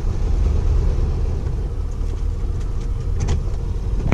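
Vintage RV's gasoline engine running steadily with a low rumble as the motorhome backs up slowly, with a couple of faint ticks about three seconds in.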